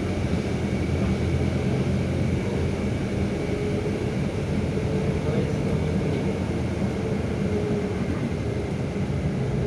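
Scania K320 UA city bus's diesel engine running steadily, heard from inside the moving bus as a constant low drone.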